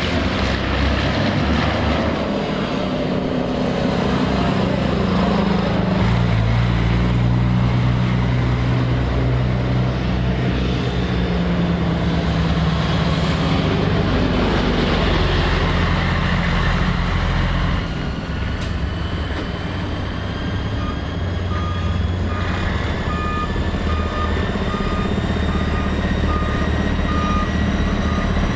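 Heavy race trucks' turbodiesel engines running, their pitch shifting as they accelerate and back off. From about 21 seconds in, a repeated beeping is also heard.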